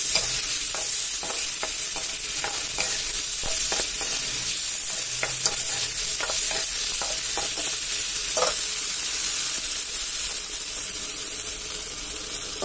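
Tomato chunks sizzling in hot oil in a pan, stirred with a steel spatula that clicks and scrapes against the pan many times at an irregular pace.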